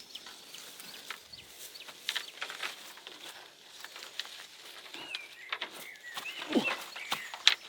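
Scattered clicks and knocks, with a few short chirping animal calls between about five and seven seconds in.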